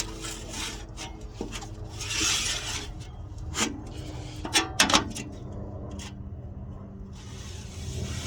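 Hand work on building materials: rubbing and scraping, then a few sharp clicks and knocks, three in quick succession about five seconds in.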